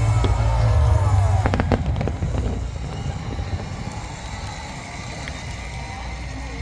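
Fireworks display: deep booms with a few sharp bangs in the first two seconds or so, dying away into a quieter stretch of scattered crackling.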